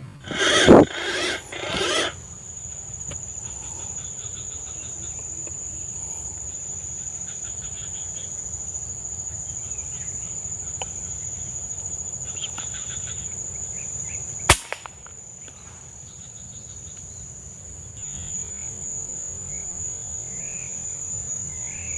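Steady high-pitched insect drone over low outdoor rumble, with a loud burst of noise in the first two seconds and a single sharp crack about fourteen seconds in.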